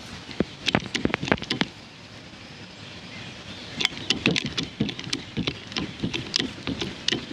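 Hydraulic lug crimper being worked onto a battery cable lug: irregular sharp metallic clicks and clacks as the jaws take up slack, a short cluster in the first two seconds and a denser run from about four seconds in.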